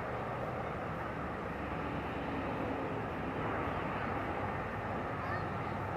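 Steady jet engine noise from an Airbus A340-300's four CFM56 turbofans: an even rushing sound with a faint hum under it.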